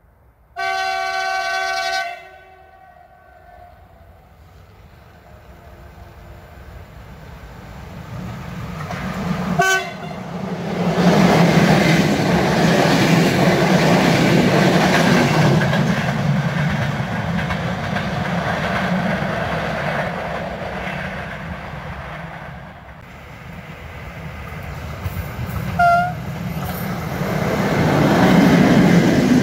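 A train's horn sounds one long chord of about a second and a half, then the train draws near and passes with a heavy rumble and the clickety-clack of wheels over rail joints, with a short sharp blip of the horn or wheels around ten seconds in.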